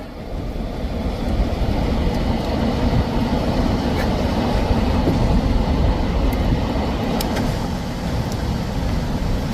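Storm wind of about 60 mph buffeting a parked vehicle, a steady dense rushing noise heavy in the lows. A few sharp ticks of small debris strike the body, the last near the end.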